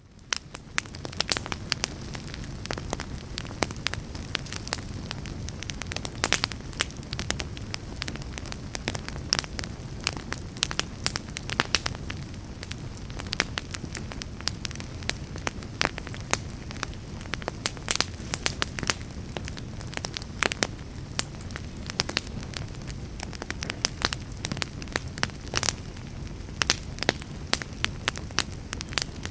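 Wood logs burning in a fireplace: frequent irregular crackles and pops over a steady low rumble of the flames. The sound fades in over the first second.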